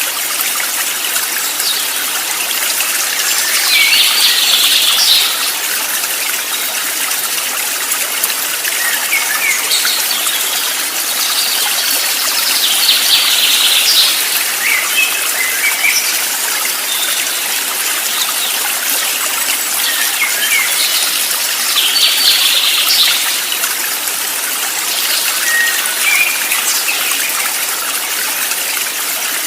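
Steady rush of a flowing stream with birds singing over it: a burst of birdsong comes three times, about nine seconds apart, with short chirps between.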